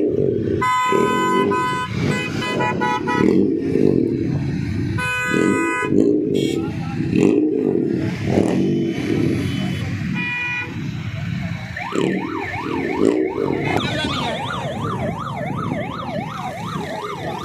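Car horns honking in several bursts over the low rumble of running engines, then, from about twelve seconds in, an electronic siren warbling rapidly up and down, about twice a second.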